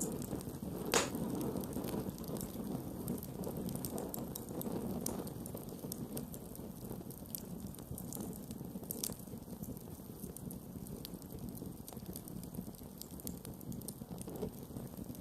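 Campfire burning steadily with a soft low rush of flame and scattered crackles and pops, one louder pop about a second in.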